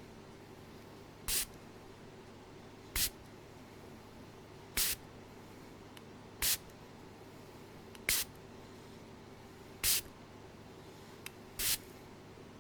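Seven short, sharp hissing bursts, one about every second and a half to two seconds, like a spray being squirted, over a faint steady hum.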